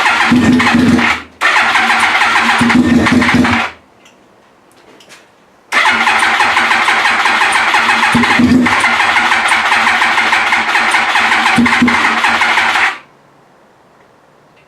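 Yamaha YZF-R1's inline-four engine being cranked by its electric starter in three tries: two short ones, then one of about seven seconds. The engine turns over without catching, and it is close to firing on this first start after being rebuilt.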